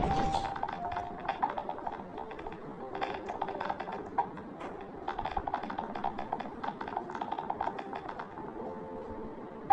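Fast typing on a computer keyboard: a dense, uneven run of key clicks with no pauses.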